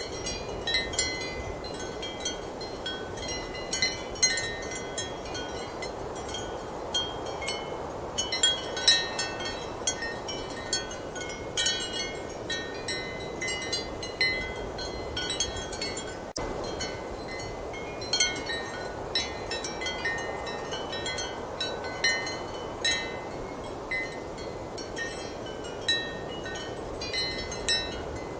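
Ceramic wind chimes clinking irregularly in strong, steady wind, their short bright tones at several fixed pitches over a constant rush of wind.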